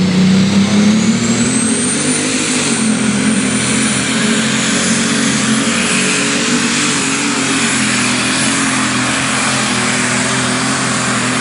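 Unlimited super stock pulling tractor's turbocharged engine running hard at full power. A high turbo whine climbs over the first few seconds, then holds steady over the loud engine note.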